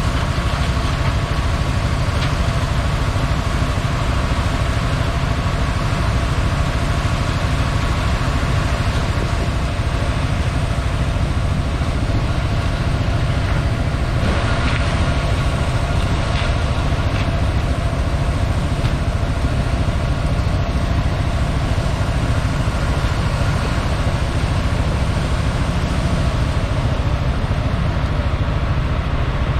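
Large diesel farm machinery running steadily under harvest work: a constant low engine drone with a faint steady whine above it.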